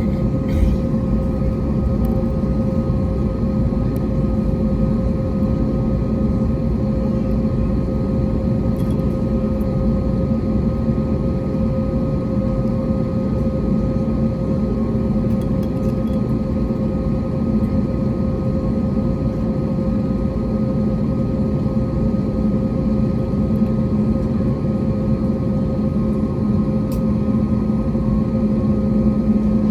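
Steady cabin noise inside an Airbus A321neo airliner: a low rumble of engines and airflow with a constant hum over it.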